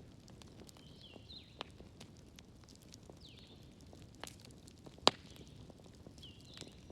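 Wood fire crackling in a fireplace: scattered small snaps with one sharp, much louder pop about five seconds in. Faint high chirping calls recur in the background.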